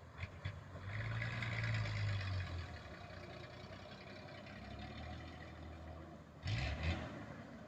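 Truck engine running steadily, louder for a second or two near the start. A short loud rush of noise comes near the end.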